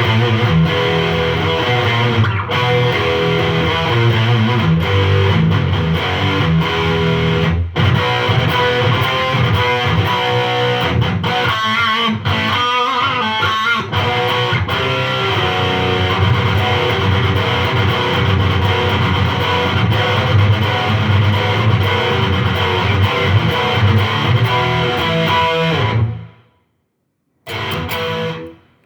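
Electric guitar played with distortion through a Line 6 Spider IV amplifier on its metal channel. The sound stays strong and loud without weakening, so the amp's earlier fault, a signal that faded after a few seconds, does not show. The playing stops abruptly near the end, then comes a short burst of guitar.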